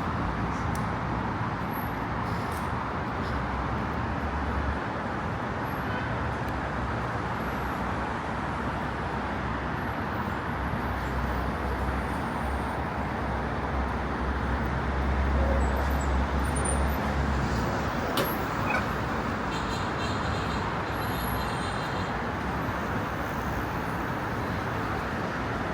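Steady city street traffic noise, with a heavy vehicle's low rumble swelling and fading in the middle.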